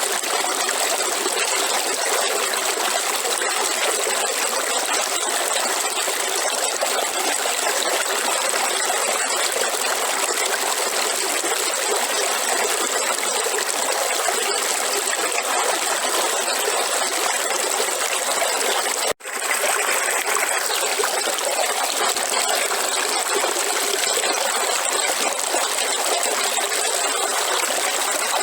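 River water rushing and trickling in a steady, even flow, with almost no low rumble. The sound cuts out for an instant about two-thirds of the way through.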